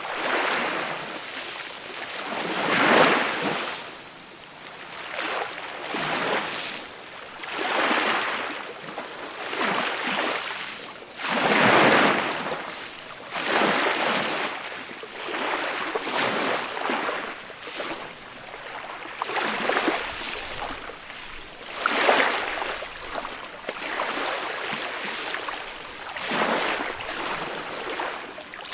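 Small waves breaking and washing up onto a beach, each swell of surf rising and falling about every two seconds, with a few louder breaks.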